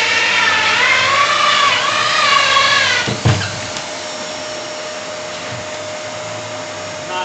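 Electric drill boring a hole, its motor whine wavering in pitch under load. About three seconds in there is a knock, and after it a quieter, steady whine carries on.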